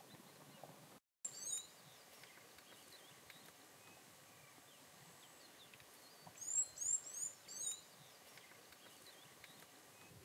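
Steady, faint outdoor background hiss with a brief dropout to silence about a second in. A bird gives a few high, curved chirps just after, then a louder quick run of four or five high chirps a little past the middle.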